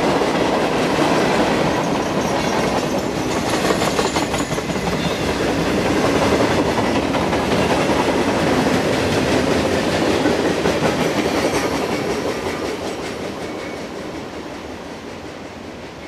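Freight cars of a CSX work train, gondolas and boxcars, rolling past: a steady rumble of steel wheels on rail with clicking over the rail joints. It fades over the last few seconds as the end of the train moves away.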